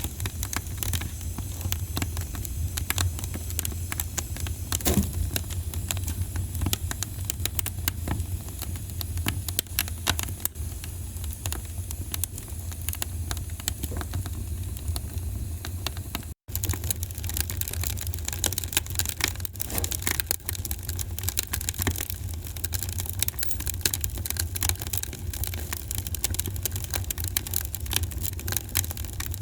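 Wood fire crackling, with dense irregular pops and snaps over a steady low rumble. The sound cuts out for a split second about halfway through.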